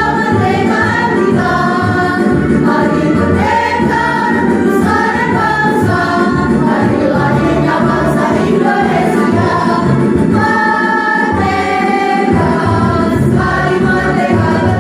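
A student choir singing together with instrumental accompaniment, held notes moving from phrase to phrase at a steady loudness.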